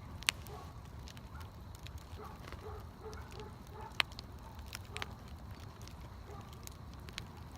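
Wood fire crackling, with scattered small snaps and two sharper pops, one right at the start and one about four seconds in.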